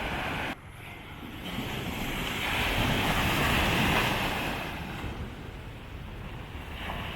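Sea surf washing up on the beach, swelling to a peak about three seconds in and then falling away, with wind rumbling on the microphone.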